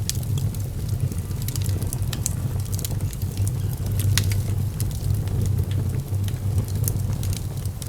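Wood fire burning in a fireplace, crackling with many short sharp pops over a steady low rumble.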